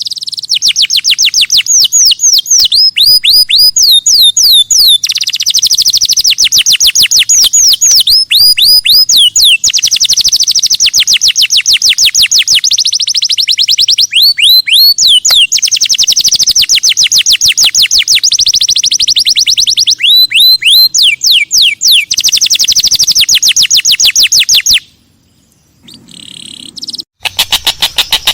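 Songbird song, loud and continuous: long, very fast high trills broken by quick series of sharp whistles that each sweep downward. It stops abruptly about three seconds before the end, and a different fast pulsing sound starts just before the close.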